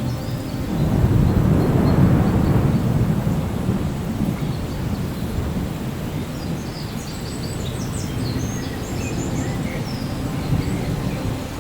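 Thunder rolling over steady rain: a long, low rumble that swells about a second in and then rolls on without a break.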